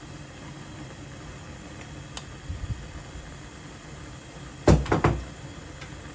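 Two sharp knocks close together, like a cupboard door or a hard object being set down, over a steady background hiss, with a faint click and soft thuds before them.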